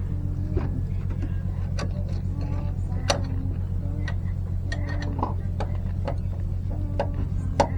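Irregular sharp clicks and clinks of metal tools and parts being handled during disc brake pad work, over a steady low hum.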